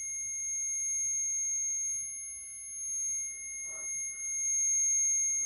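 A REM pod ghost-hunting sensor sounding its alarm: a steady, high electronic tone, triggered when something disturbs the field around its antenna. The investigators take it for a spirit touching the device.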